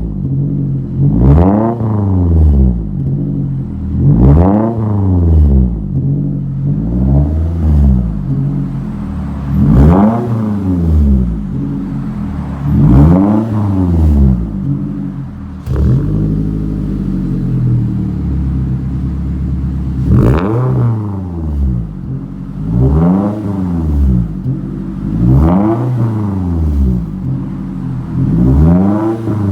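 2013 Scion tC's 2.5-litre four-cylinder through a Rich's Street Demon cat-back exhaust, blipped up in short revs about every three seconds and dropping back to idle each time, with a longer stretch of steady idle midway.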